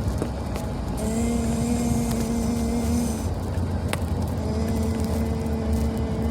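Car road and engine noise heard from inside the cabin while driving: a steady low rumble, with a steady droning tone that holds for about two seconds, breaks off, and returns near the end. A single light click about four seconds in.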